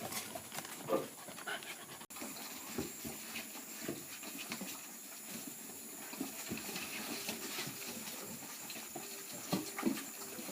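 Young puppies heard faintly at close range, with scattered short, soft noises from them over a quiet background.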